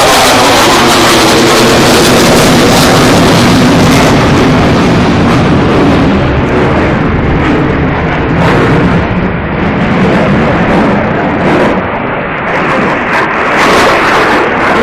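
Military jet aircraft passing low overhead with a loud, saturating roar, its whine dropping in pitch at the start as it goes by. The roar stays heavy for about five seconds, then its higher frequencies fall away as the jet draws off.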